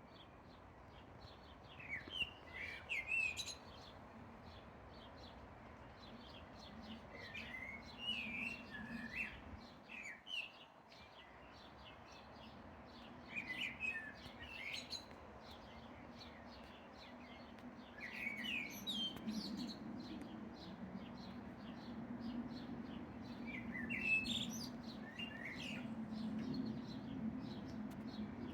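Songbird singing short twittering chirp phrases that come again every five or six seconds, over a faint low hum.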